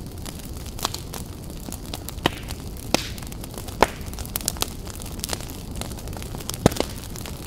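Fire crackling: a steady low rumble of flames with frequent sharp pops, a few much louder ones scattered through.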